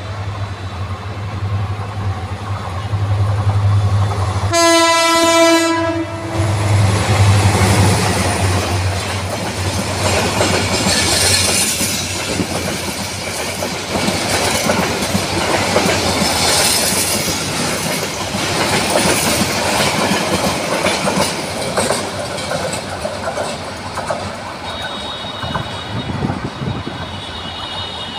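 A Bangladesh Railway diesel-hauled passenger train, the Kalni Express, approaching and running past. The locomotive engine hums, its horn sounds one blast of about a second and a half some five seconds in, then the coaches roll by with a steady rhythm of wheel clicks over the rail joints.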